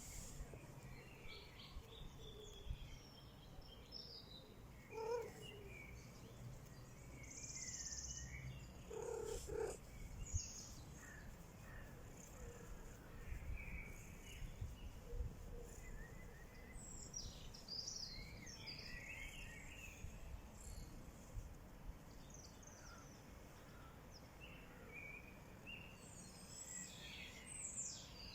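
Faint outdoor nature ambience: scattered brief bird chirps over a low, steady background rumble.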